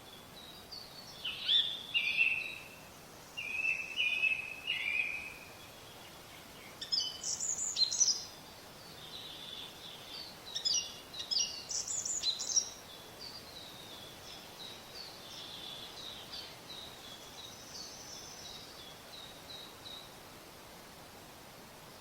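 Small birds singing and chirping in short bursts of quick, high notes, loudest in the first half, then fainter twittering, over steady outdoor background noise.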